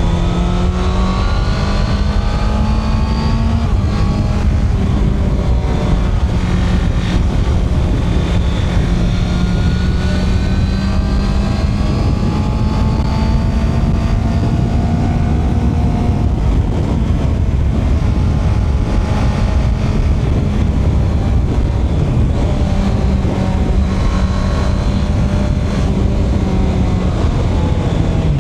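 Honda CB650R's inline-four engine pulling under way, its pitch climbing slowly through long stretches in gear with a couple of brief dips, over a steady rush of wind and road noise.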